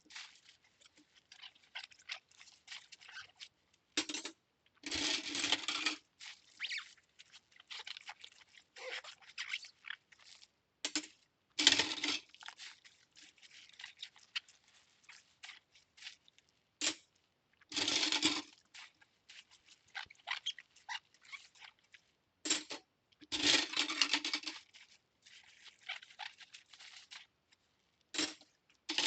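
Metal cutlery being washed by hand in a sink: irregular clinks and scrapes of the utensils, broken by short bursts of running water about every six seconds.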